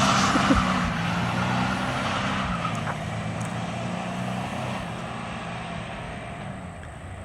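Dodge D150 pickup's 225 cubic-inch slant six engine at full throttle, pulling away after a launch and steadily fading as the truck draws off.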